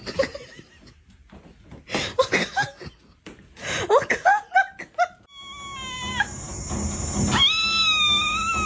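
A cat meowing several short times, then one long, drawn-out yowl that rises sharply and holds steady near the end.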